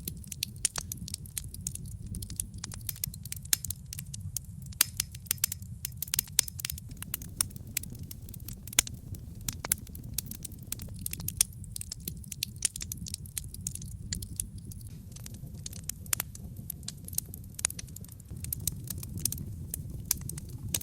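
Wood logs burning in a fireplace, crackling and popping with many irregular sharp snaps over a steady low rumble of the flames.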